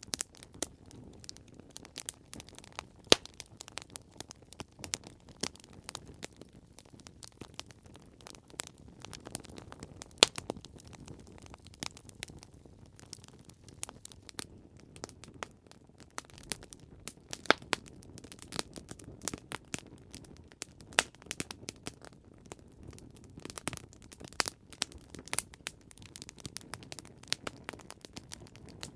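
Campfire crackling: irregular snaps and pops of burning wood over a low, steady hiss, with a few sharp louder pops.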